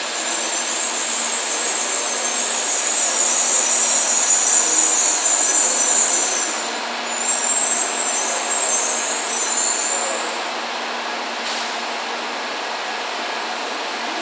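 N700 series Shinkansen train rolling slowly past along the platform track as it pulls into the station, a steady rumble with patches of high hissing. The hissing dies away and the train noise eases off about ten seconds in as it slows.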